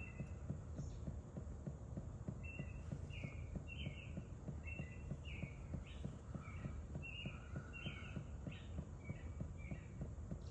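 Faint short high chirps, repeated two or three times a second, over a fast, low, irregular ticking.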